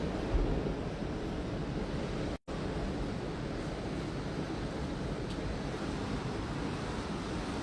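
Steady ocean surf and wind buffeting the microphone, with a low gust thump just after the start; the sound cuts out completely for a split second about two and a half seconds in.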